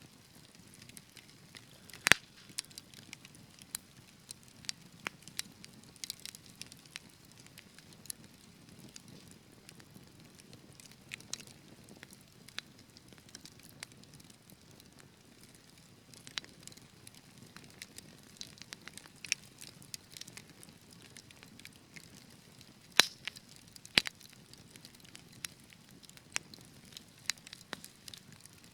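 Wood fire crackling, with irregular sharp pops and snaps over a soft low hiss; the loudest pops come about two seconds in and twice near the end.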